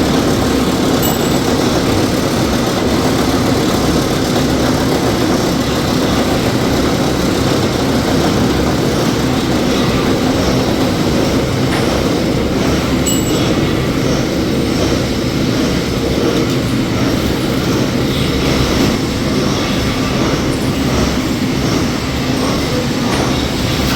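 Workshop machinery running steadily, a loud continuous mechanical noise without a clear rhythm.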